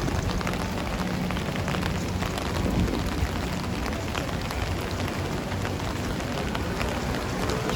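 Steady rain falling, with many small drop ticks over a constant low hum.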